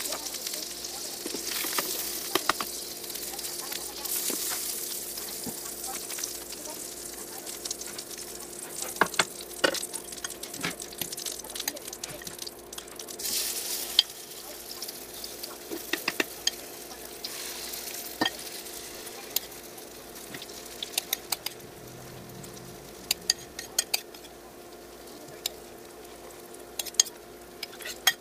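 Egg-and-cabbage omelette batter sizzling in a generous amount of hot oil in a non-stick frying pan, loudest in the first few seconds and again midway as fresh batter goes in. A metal spoon clicks against the bowl and pan, more often toward the end.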